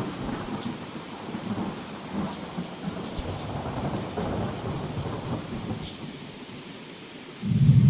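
Heavy rain pouring steadily, with rolling thunder that rumbles and fades away. A louder peal of thunder breaks in suddenly near the end.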